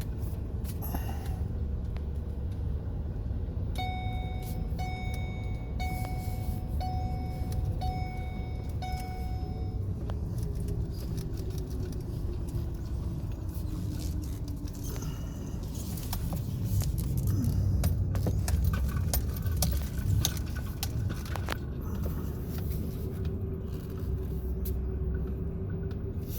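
Vehicle running with a steady low rumble. About four seconds in, a car's warning chime beeps six times, about once a second, and scattered clicks and rattles follow later.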